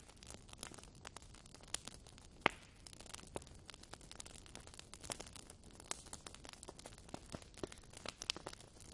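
Wood fire crackling in a fireplace: irregular sharp pops and snaps from the burning logs over a faint hiss, with one louder pop about two and a half seconds in.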